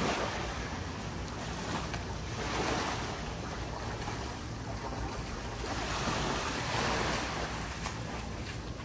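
Ocean waves breaking and washing onto the beach, swelling and easing every couple of seconds, with a low rumble of wind on the microphone.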